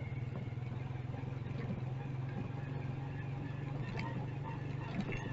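Motorcycle engine running steadily, its low drone holding one pitch throughout, with faint street traffic noise around it.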